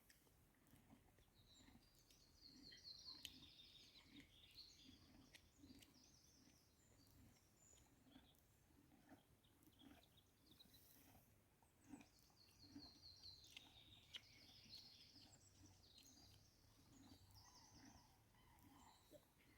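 Small birds singing in faint, high, trilling phrases in two spells, over soft, evenly spaced low thuds about twice a second.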